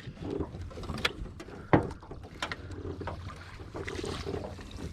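Scattered knocks and clunks against a small fishing boat, one of them sharp and loud, over a low steady hum.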